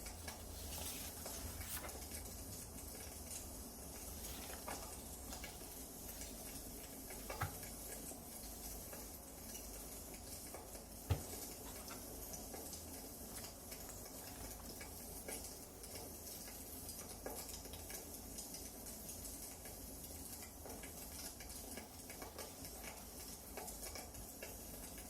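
Wood fire crackling faintly: scattered small ticks and pops over a steady low hiss, with a couple of sharper snaps partway through.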